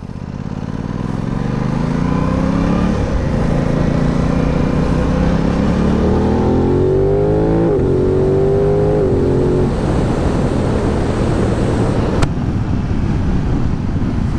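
Aprilia RS 660's parallel-twin engine accelerating up through the gears. Its pitch climbs, drops sharply at each upshift about 3, 8 and 10 seconds in, then holds steady at cruising speed.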